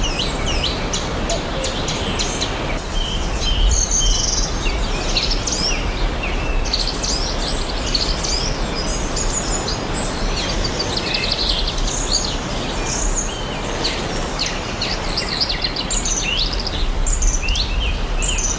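Several songbirds chirping and singing at once, many short quick calls overlapping, over a steady rushing background noise.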